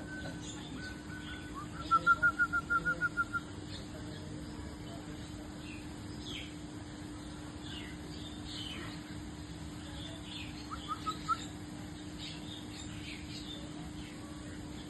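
Birds calling: a loud, fast run of about eight repeated whistled notes about two seconds in, a shorter run of three or four near eleven seconds, and small chirps throughout, over a steady low hum.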